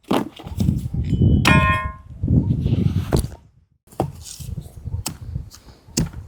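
A metal object strikes once with a clang, ringing briefly about a second and a half in, amid rustling and handling noises.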